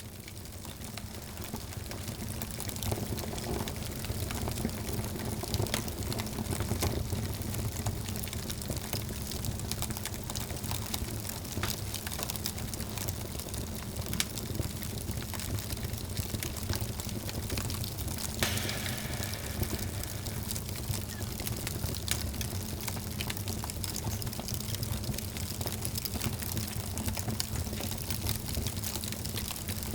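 Wood fire burning in a fireplace, crackling and popping irregularly over a steady low rush of flame. It swells up over the first couple of seconds, with a sharper burst of crackles past the middle.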